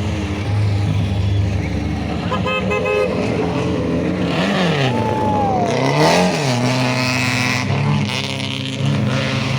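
Historic rally cars' engines revving as they pass, the engine pitch climbing and falling. A brief car horn toot sounds about two and a half seconds in.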